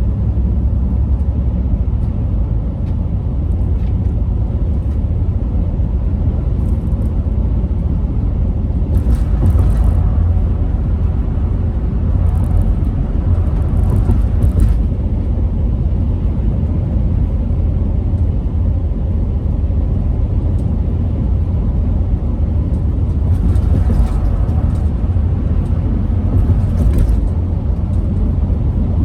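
Car driving at a steady speed: a continuous low rumble of engine and tyre noise, with a little faint higher hiss now and then.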